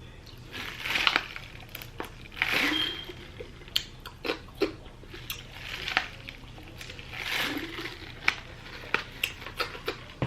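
Close-up eating sounds: crunchy chewing in a few swells, with many sharp mouth and lip clicks.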